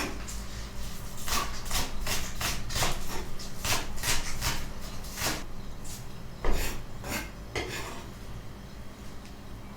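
Repeated rubbing or scraping strokes, about two a second, thinning out after about five seconds, with a sharp knock about six and a half seconds in.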